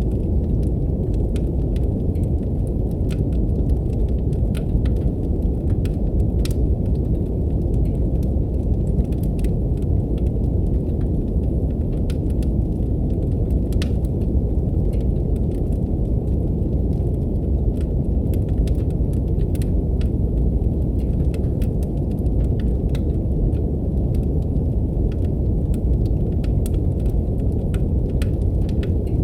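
Steady brown noise, a deep, even rumbling hiss, with a wood fire crackling over it in scattered sharp pops and snaps.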